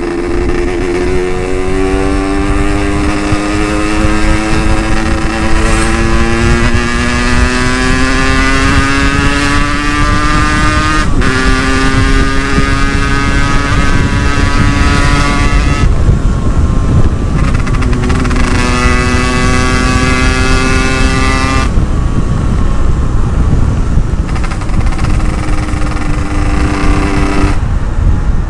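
Yamaha RX-King 135 single-cylinder two-stroke engine under hard acceleration, its pitch climbing steadily and dropping back at each gear change, with short breaks where the throttle is off in the second half. Heavy wind noise on the helmet camera underneath.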